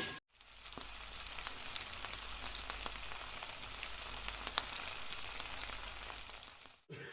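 Steady sizzling hiss with scattered small crackles, starting abruptly just after the beginning and cutting off abruptly near the end.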